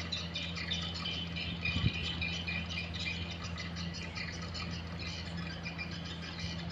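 Dense chorus of edible-nest swiftlet calls: many rapid, overlapping chirps and twitters, over a steady low hum.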